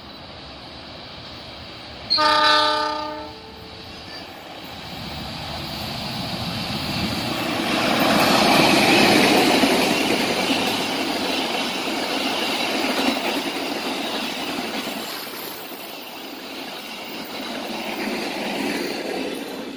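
Passenger train sounding one short horn blast about two seconds in, then running past at speed: a rush of wheel and rail noise that swells to its loudest about halfway through and slowly fades.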